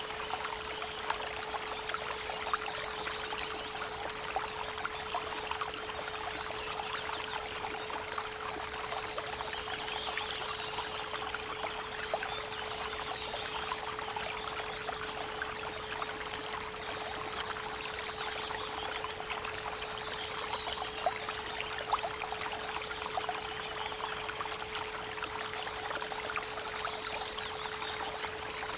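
Creek water running steadily, with birds singing short high trills and chirps every several seconds, over a constant 432 Hz pure tone.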